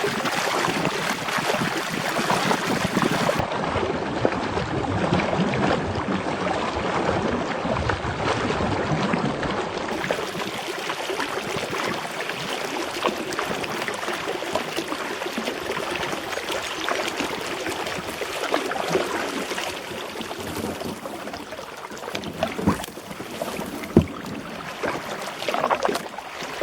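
Kayak on the water: steady sloshing and splashing of water around the paddle and hull, with scattered light knocks and one sharper knock near the end.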